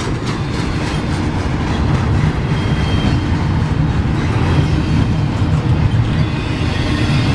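Freight train rolling past, a steady rumble of its cars on the rails.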